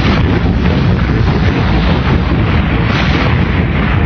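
Animated space-battle sound effects: a loud, steady rumbling roar of explosions that cuts in abruptly and holds without separate blasts.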